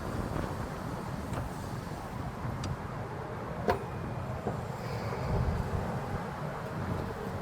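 Wind rumbling on the microphone, with a few light clicks and taps of metal parts being handled, the sharpest a little over halfway through.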